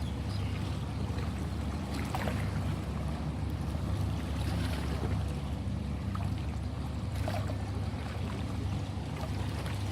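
Ocean waves: a steady low surf rumble with a few brief splashes of water, about two, five and seven seconds in.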